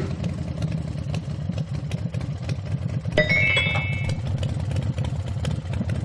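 Cartoon train sound effect: a steady, rapidly repeating low chugging, with a short run of high notes stepping up in pitch about three seconds in.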